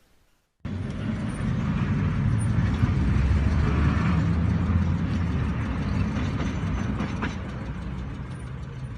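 Road and engine noise of a moving vehicle picked up by a dashcam: a steady low rumble with a hiss above it. It starts abruptly about half a second in, and a single short click comes about seven seconds in.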